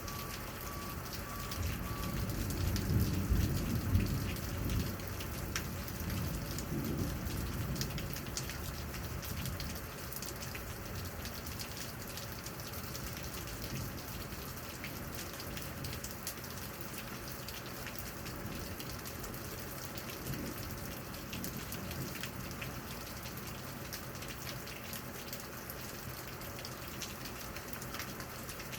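Steady rain falling, with many individual drops ticking close by. A low rumble of thunder swells about two to five seconds in, and fainter rumbles follow around seven and twenty seconds.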